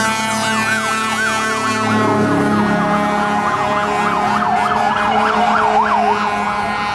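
Fire truck electronic siren sweeping up and down in a wail, switching to a faster yelp about two-thirds of the way through. Other sirens sound at the same time, with steady tones underneath.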